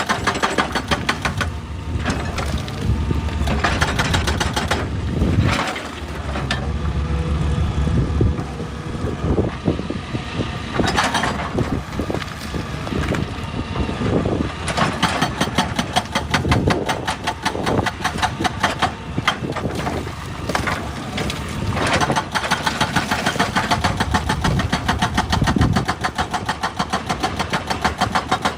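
Excavator's diesel engine running steadily with a fast, even clatter and a low rumble. Several louder noises rise over it now and then as the machine works.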